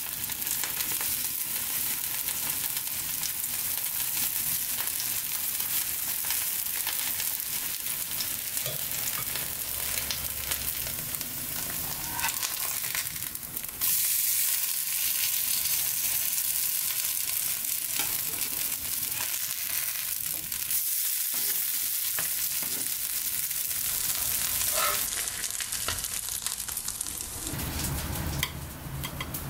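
Kimchi pancake batter shallow-frying in vegetable oil in a non-stick pan: steady sizzling and crackling as the pancakes brown on the bottom. The sizzle jumps louder suddenly about fourteen seconds in.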